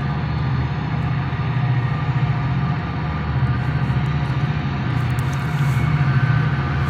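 Steady, unbroken running noise of a moving vehicle, with a strong low engine drone.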